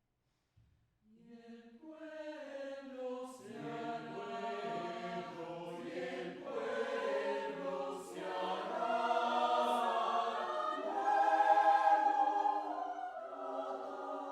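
Vocal ensemble singing a cappella, voices in several parts. After a short silence the voices come in about a second in and build up layer on layer, swelling to their loudest a couple of seconds before the end.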